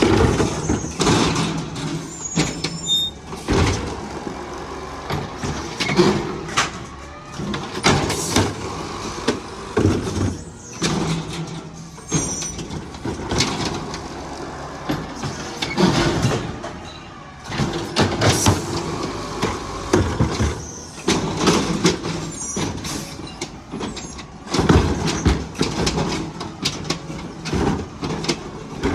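Garbage truck at work: its diesel engine running and rising and falling, with many loud bangs and clanks throughout and a few brief high squeaks.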